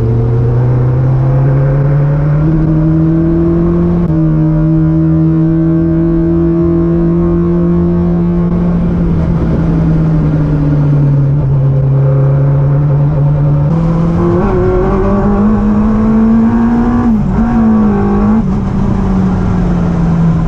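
Yamaha R1 inline-four motorcycle engine in a classic Mini, heard from inside the cabin while driving. The engine note holds steady for stretches and shifts in pitch a few times, stepping down at the start and up about four seconds in and again near fourteen seconds, then wavers up and down near the end.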